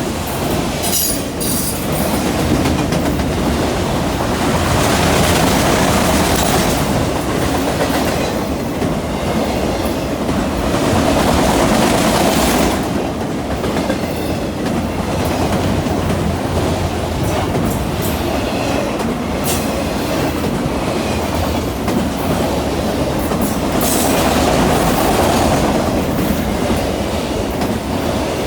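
CN freight train's cars rolling past at a grade crossing: a steady rumble with the clickety-clack of wheels over the rail joints, swelling and easing every few seconds, with a few sharp clanks.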